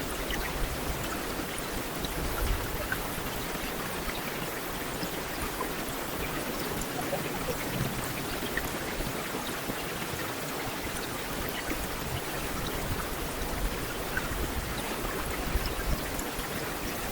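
Heavy rain falling steadily: a continuous hiss with scattered individual drops.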